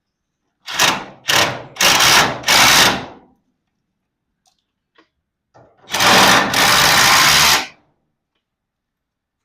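Power driver running in four short bursts, then one longer run of nearly two seconds, as fasteners on the garage door hardware are driven or backed out.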